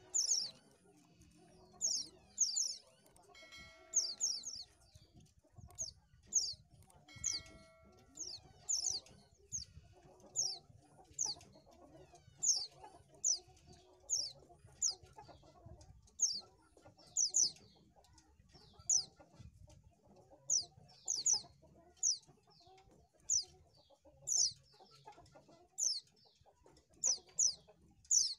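White-eye (pleci) calling: short, high chirps, each a quick downward sweep, repeated about once or twice a second.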